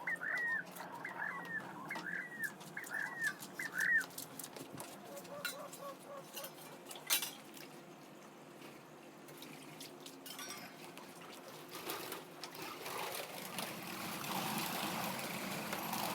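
A bird calls over and over in short chirps, about two a second, for the first few seconds. Near the end, water spraying from a hose starts up and keeps going.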